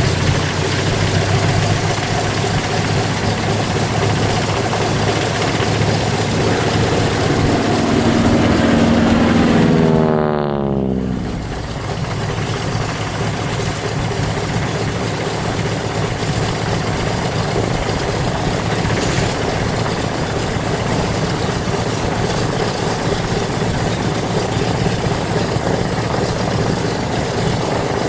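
Douglas C-47 Skytrain's twin Pratt & Whitney R-1830 radial engines droning as it passes by. The engine note builds in loudness, then drops sharply in pitch about ten seconds in as it goes past, and a steady propeller drone carries on afterwards.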